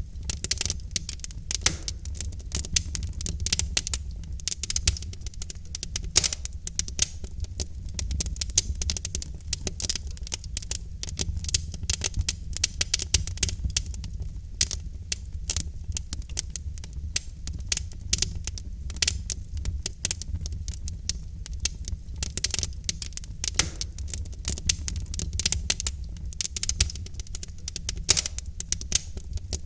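Wood logs burning in a fireplace, crackling with many small irregular pops over a steady low rumble of the flames.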